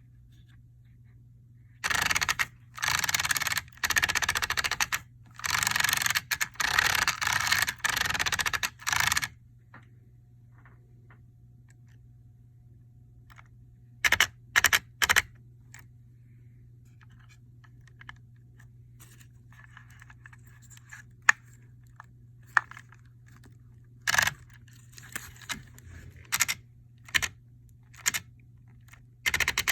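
Traxxas 4-Tec 2.0 VXL RC car's drivetrain grinding in bursts of about a second each. A close run of bursts comes in the first ten seconds, then a few short ones, then another group near the end.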